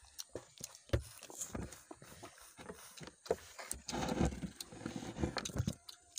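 Close-up eating noises: chewing and small mouth clicks and smacks. There is a sharp knock about a second in, and a denser stretch of rustling, rumbling noise about four seconds in.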